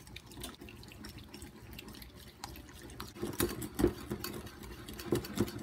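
Wire whisk beating softened cream cheese cubes into maple syrup in a ceramic bowl: wet squelching with quick clicks of the wires against the bowl, and a few louder knocks in the second half.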